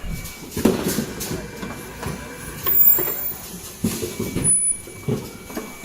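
Automatic N95 cup mask machine running, with irregular mechanical clacks and thumps from its moving stations over a steady hum. A brief high whine comes about halfway through.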